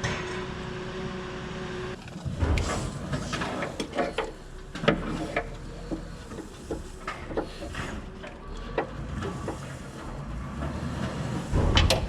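Spanner and metal parts clinking and knocking irregularly as a badly rusted hydraulic hose fitting and nut are worked loose. The knocks start about two seconds in, after a steady hum.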